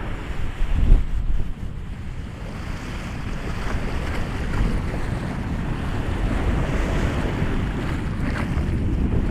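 Ocean waves washing in and breaking on a shore, a steady rushing surf, with wind buffeting the microphone in low gusts, strongest about a second in.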